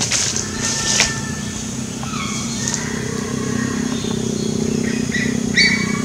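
Several short whistled bird calls, some gliding in pitch, over a steady low hum. A cluster of calls about five seconds in is the loudest, and two sharp clicks come near the start.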